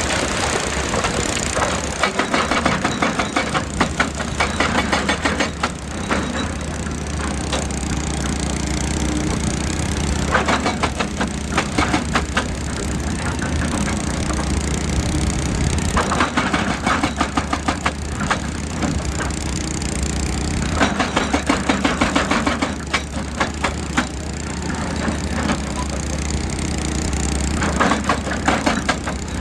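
Excavator's diesel engine running steadily, with five bursts of rapid knocking, each a few seconds long, as the machine works.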